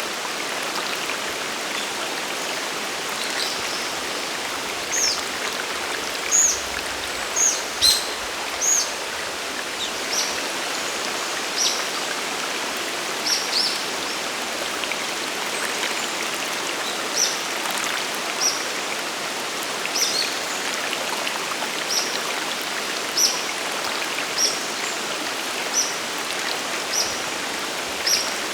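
A mountain waterfall and stream rushing steadily. From about five seconds in, a bird repeats short, high chirps about once every second or so.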